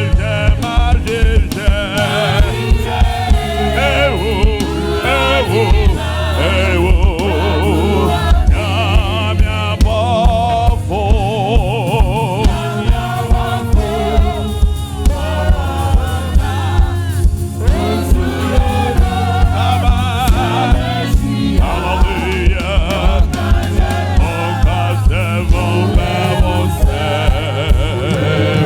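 Gospel worship song: a choir of voices singing over a band with a steady drum beat and heavy bass.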